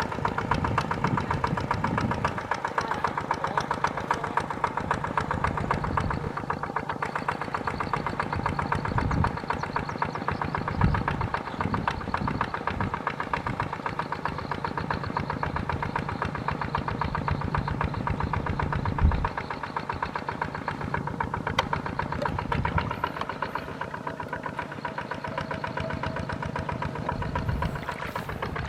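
Small tractor's diesel engine running steadily with a fast, even beat, and a couple of brief louder low thumps about 11 and 19 seconds in.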